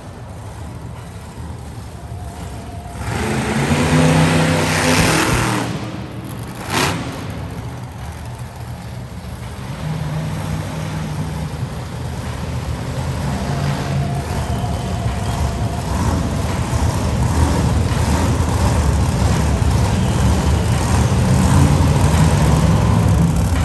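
Monster truck engine revving in a loud surge a few seconds in, with a single sharp bang about seven seconds in. Then the engine runs louder and steadier toward the end.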